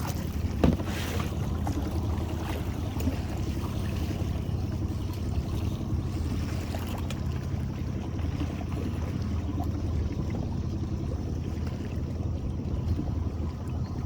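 Boat motor running steadily at low speed, with a short knock a little under a second in.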